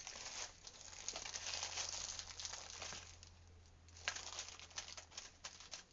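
Jewellery findings and craft supplies being rummaged through by hand. About three seconds of crinkling and rustling, then a run of light clicks and taps.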